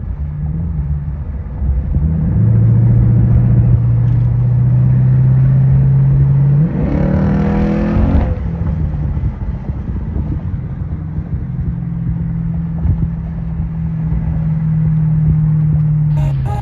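Turbocharged truck engine running, then revved hard about seven seconds in: the pitch climbs steeply with a rushing hiss for about a second and a half, then falls back to a steady run.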